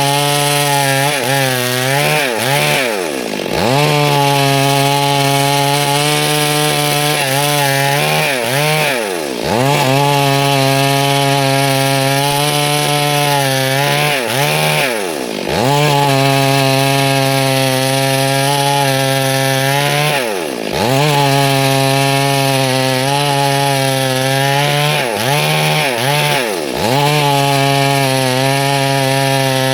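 Stihl MS 382 two-stroke chainsaw running at high revs and cutting through wood. Its pitch drops sharply and climbs back about six times as the throttle eases off and opens again.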